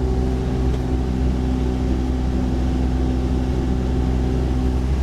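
Mini excavator's Yanmar diesel engine running steadily, with a hydraulic hum on top whose pitch shifts just before the end.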